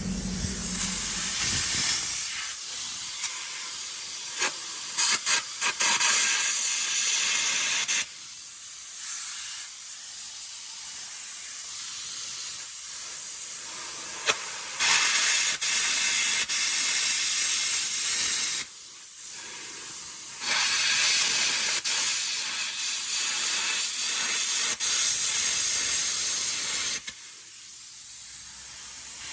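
Air carbon arc gouging steel: the loud hiss of the compressed-air jet with the crackle of the arc, cutting off welded side plates. It runs for several seconds at a time, with short breaks between runs.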